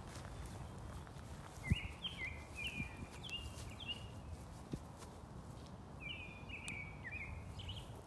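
A songbird singing two runs of quick chirping notes, each note sliding down and then holding briefly, over a steady low rumble.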